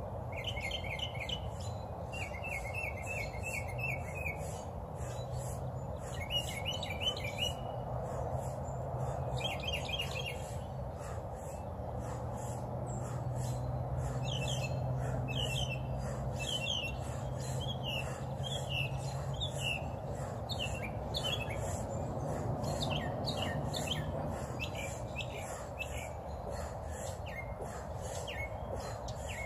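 Small birds chirping: quick repeated trills in the first ten seconds, then separate short falling chirps, over a steady low background hum.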